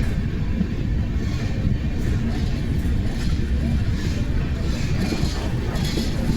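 Amrit Bharat Express passenger train running on the track, a steady low rumble of the moving coach.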